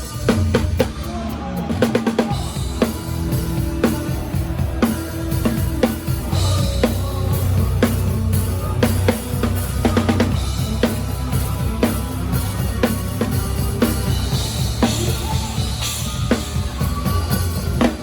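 Drum kit played live with a band, kick drum and snare hits keeping a steady beat over the band's bass and other instruments.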